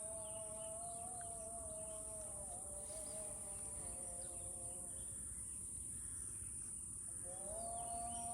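A steady high-pitched insect chorus, with a slow melody of long held notes over it. The melody fades out about halfway through and comes back with a rising note near the end.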